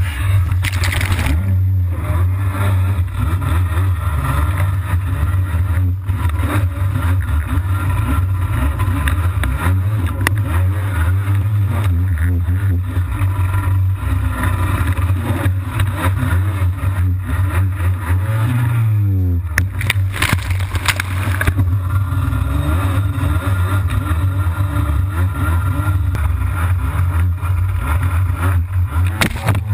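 Jet ski engine running hard and steady; about two-thirds of the way through its pitch sweeps down as the throttle comes off, then climbs again, and it drops once more near the end.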